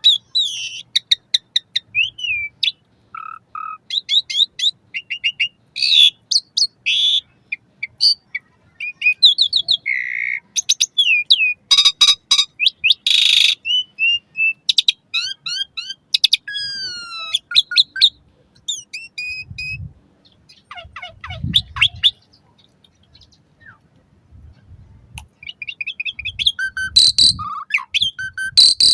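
Asian pied starling singing a long, varied song of sharp chirps, rising and falling whistles, rapid trills and harsh rasping notes, with a lull in the second half before it picks up again near the end.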